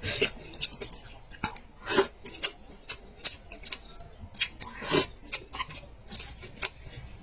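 Close-miked chewing and lip-smacking while eating meat: irregular wet mouth clicks, with louder smacks about two and five seconds in.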